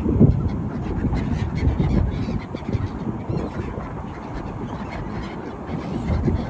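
A flock of waterbirds calling at the sea shore, many short calls overlapping.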